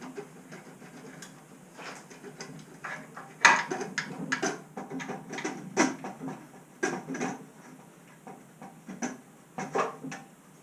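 Stock exhaust of a Triumph Street Triple 765 being wobbled and shaken to free it from its rubber coupling: irregular metallic knocks, scrapes and rattles, the loudest about three and a half seconds in.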